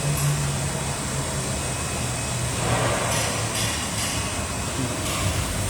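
Steady low machine hum with an even hiss of running equipment, and brief handling noise about three seconds in and again near the end.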